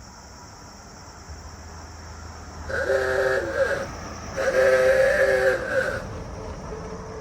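A vehicle rolling past sounds a multi-tone horn twice, two held chord blasts of about a second each whose pitch sags slightly as each ends, over the low rumble of its engine.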